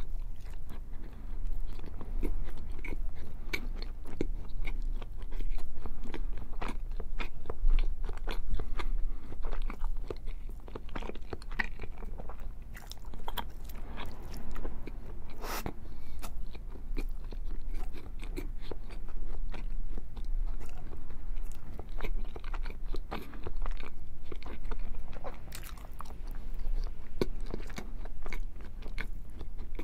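A person biting and chewing pieces of cheese close to the microphone: a steady run of small mouth clicks and smacks.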